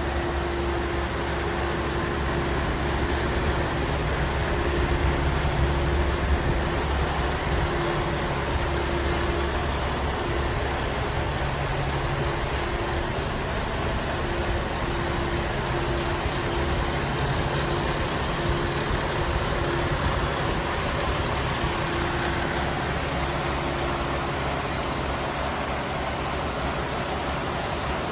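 2016 Iveco Stralis 460 tractor unit's 460 bhp turbocharged Euro 6 diesel engine idling steadily.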